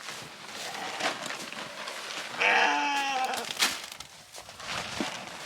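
A sheep bleats once, a single wavering call of just under a second about halfway through, amid scattered rustling and crunching noises.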